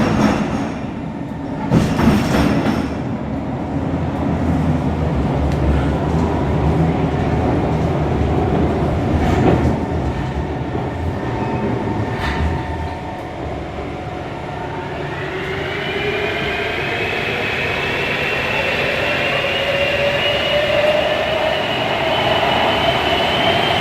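Kawasaki C151 metro train heard from on board: a low rumble of wheels on track with a few sharp knocks. About fifteen seconds in, the traction motors set up a whine that rises slowly in pitch as the train accelerates.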